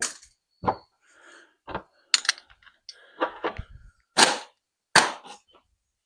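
Objects and loose parts being picked up and set down on a workbench: a series of about ten sharp knocks and clatters, irregularly spaced.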